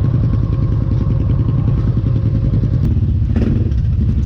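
Polaris ATV engine running at a steady idle, with an even pulsing exhaust note. A brief higher-pitched sound cuts in about three seconds in.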